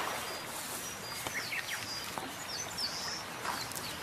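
Small birds calling with several short high chirps over a faint steady hiss.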